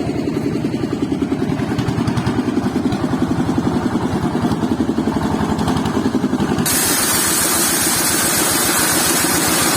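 An engine idling with a rapid, even chug of about ten beats a second. About seven seconds in, a loud hiss joins it abruptly.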